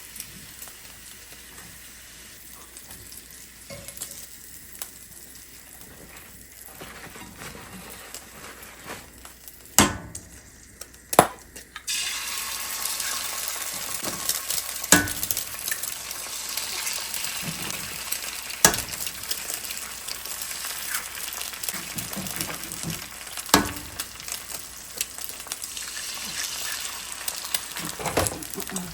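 Food sizzling in a frying pan, fairly quiet at first. About twelve seconds in the sizzle turns suddenly much louder, with scattered clicks and knocks of a utensil against the pan.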